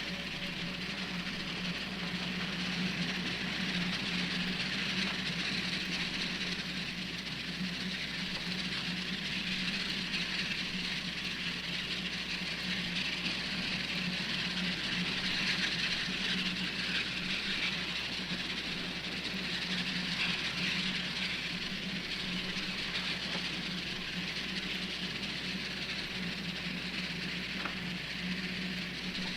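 Steady mechanical hum with an even hiss over it, unchanging.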